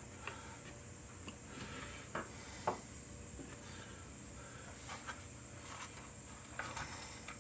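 A few faint clicks and knocks from small parts and tools being handled on the wooden workpiece, over a steady hiss; the sharpest knock comes about two and a half seconds in.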